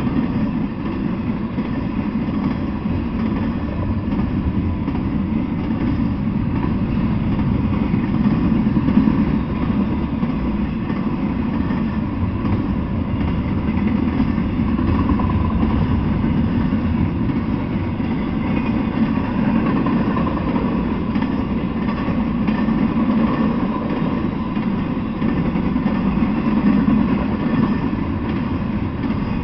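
Double-stack intermodal freight train passing: a steady, unbroken noise of steel wheels rolling on the rails, picked up by a trail camera's small microphone.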